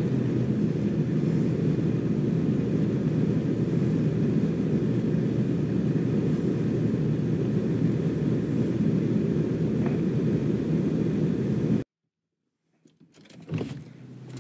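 A parked minivan's engine idling, a steady low rumble heard from inside the cabin. It cuts off suddenly about twelve seconds in, and a couple of faint knocks follow.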